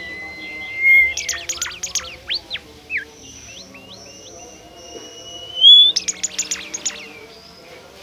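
Bimoli (golden whistler) singing. Twice, a long, slightly rising whistle ends in a rapid burst of loud, sharp notes, once about a second in and again near six seconds.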